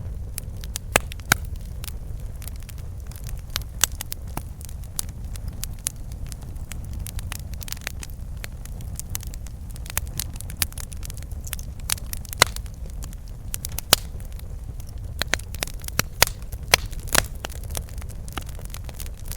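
Campfire burning: irregular crackles and pops of burning wood, a few sharper snaps among them, over a steady low rumble of the flames.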